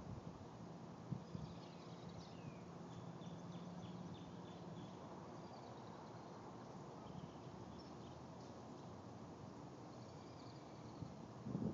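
Quiet outdoor ambience with faint bird chirps and twitters scattered throughout over a steady low background hiss, and a brief dull thump near the end.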